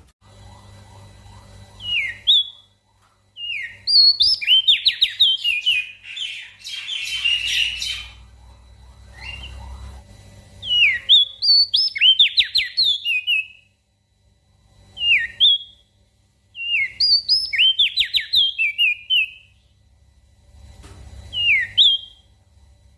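Crested darkeye (opior jambul) singing in repeated short phrases of quick, downward-sweeping whistled notes, with pauses of a second or two between phrases. A brief rushing noise comes about a third of the way in, over a faint low hum.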